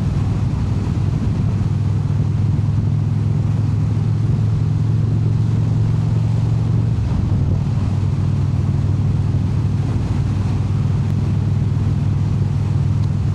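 Indian Super Chief Limited V-twin engine and exhaust running steadily at cruising speed while riding, a low, even drone. About seven seconds in the note changes slightly.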